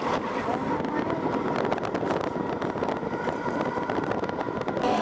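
Tango narrow electric car driving: a steady rush of road noise with a thin, steady whine.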